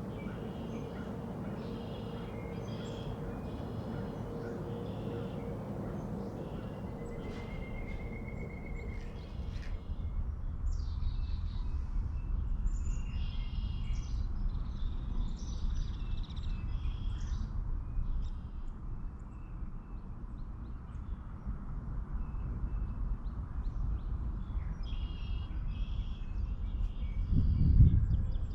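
Songbirds chirping and calling in repeated short phrases over a steady low rumble of outdoor background noise, with one brief loud low thump of noise near the end.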